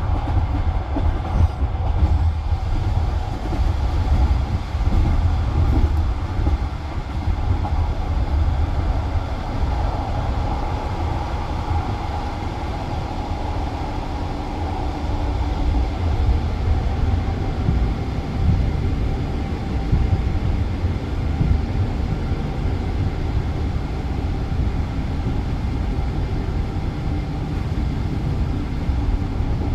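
Passenger train carriage rolling on rails, heard from inside the car: a steady low rumble of wheels and running gear, with no distinct clickety-clack beat.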